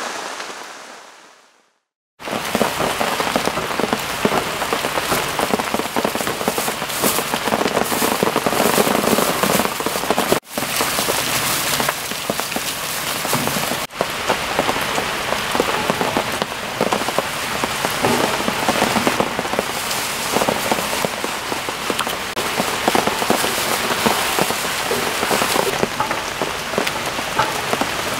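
Heavy rain falling steadily. It fades out within the first two seconds, comes back at full strength, and breaks off twice for an instant, about ten and fourteen seconds in.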